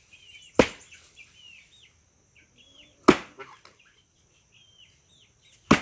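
Three axe blows into a large waterlogged log, each a sharp crack, about two and a half seconds apart.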